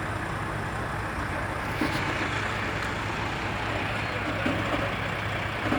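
Motor vehicle engine running steadily, a low even hum under a haze of noise.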